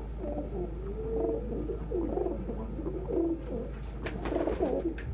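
Several pet doves cooing over one another in a flock, with low, overlapping coos. A few short rustling noises come about four seconds in.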